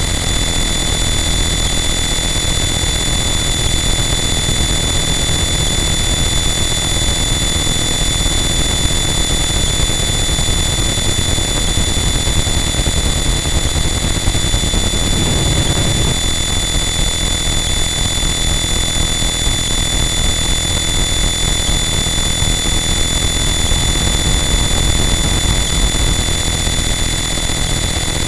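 Harsh noise wall: a loud, dense, unchanging wall of distorted noise with steady high-pitched tones ringing through it, and a brief swell in the lower range about halfway through.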